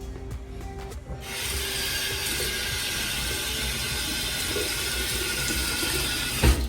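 Sink faucet running in a steady gush for about five seconds, starting about a second in and shutting off with a thump near the end.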